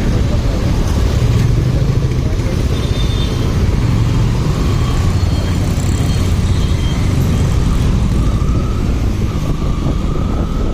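Motorcycle ride in traffic: steady rush of wind and engine noise on the rider's microphone, with a faint rising whine about eight seconds in.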